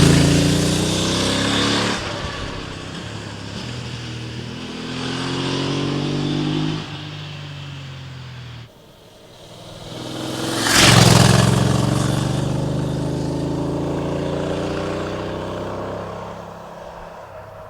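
BMW F900XR parallel-twin engine through its stock Euro 5 exhaust, accelerating twice with a low burble that is not loud. Between the two pulls the throttle closes sharply about eight or nine seconds in, and after the second pull the revs slowly die down. A rushing noise peaks at the start and again at the second pull.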